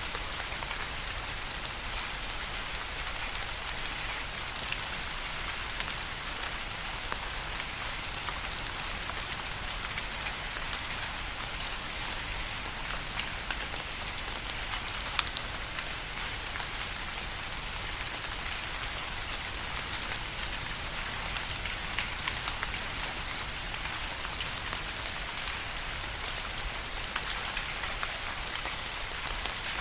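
Steady rain falling, with many individual drops ticking sharply on a hard surface over an even hiss.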